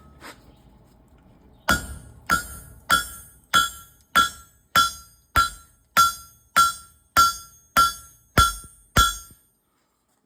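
Hammer blows on hot steel over an anvil during a forging heat: thirteen steady strikes about one every 0.6 seconds, each with a bright ring from the anvil, starting a couple of seconds in and stopping about a second before the end.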